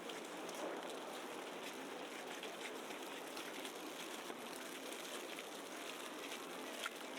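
Steady hiss of a wet, snowy city street in falling snow and slush, with many small scattered ticks.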